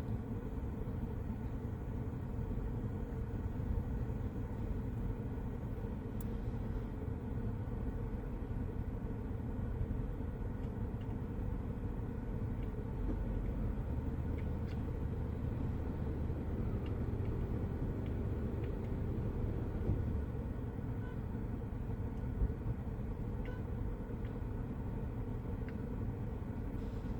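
Steady low vehicle rumble, with a few faint thumps near the middle and later on.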